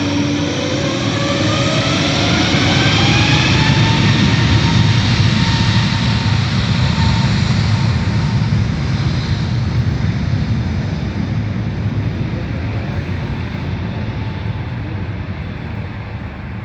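Airbus A321neo turbofan engines spooling up with a rising whine to high thrust. The loud engine rumble peaks a few seconds in, then slowly fades.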